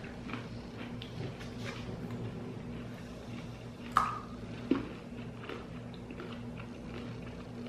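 Mouth chewing a crunchy nut-and-seed bar: faint crunching, with a sharper crunch about four seconds in as a fresh piece is bitten and another shortly after.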